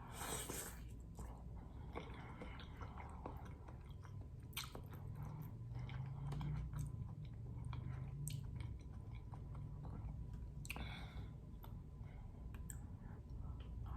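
Close-up mouth sounds of a person chewing and biting saucy seafood, wet smacking with scattered sharp clicks and a brief louder noisy burst about 11 seconds in.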